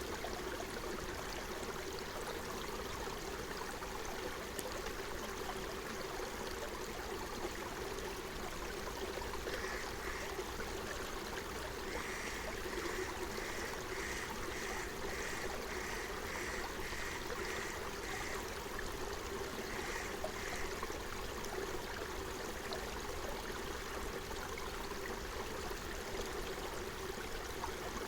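Forest stream flowing steadily. A bird repeats a short call about one and a half times a second from about ten to eighteen seconds in, and twice more shortly after.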